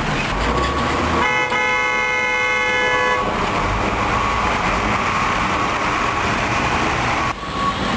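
A vehicle horn sounds once for about two seconds, starting a second or so in, over steady truck and street noise. A truck's reversing beeper beeps repeatedly, clearest near the end.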